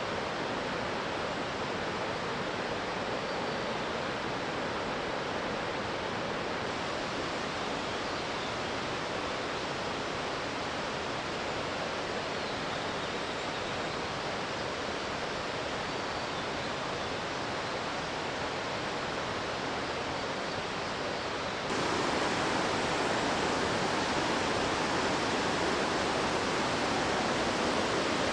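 Waterfall rushing in a steady roar of falling water, with no break or rhythm. About three-quarters of the way through it suddenly gets louder and brighter, as if heard from closer to the falls.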